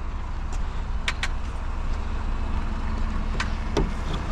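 A vehicle engine idling with a steady low rumble. A few short clicks and knocks sound over it.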